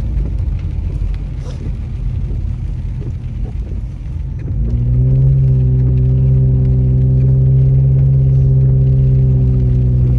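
Car engine and road rumble heard from inside the cabin on a wet road. About four and a half seconds in, a steady engine drone comes up and holds as the car pulls up an incline.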